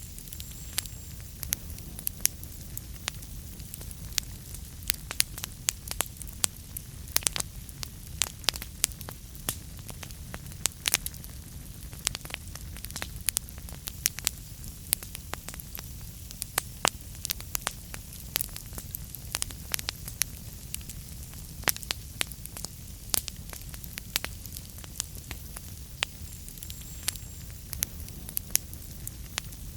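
Wood fire burning in a fireplace, crackling and popping irregularly several times a second over a low steady rumble of the flames.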